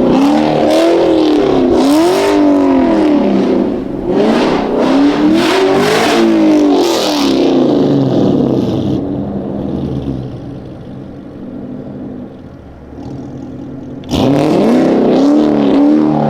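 Chevrolet Camaro engine revving hard, its pitch swinging up and down again and again as the car is driven sliding on snow. About nine seconds in it drops to a quieter, steadier run, then revs hard again near the end.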